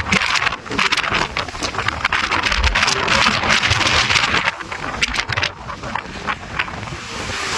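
Strong mountain wind gusting hard against the microphone, a rushing roar with crackle and low rumble that swells and eases, loudest in the first half.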